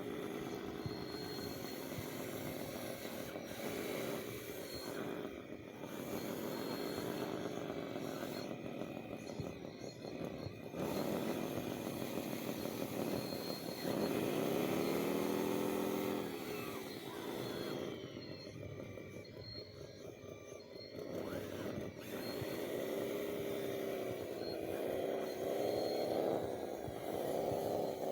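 Small electric motors of radio-controlled construction models whining, the pitch rising and falling over and over as the motors speed up and slow down under the sticks.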